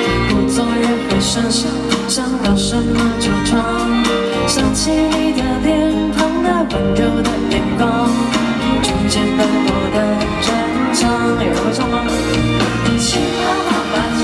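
Live pop band playing a song with a steady drum beat and bass.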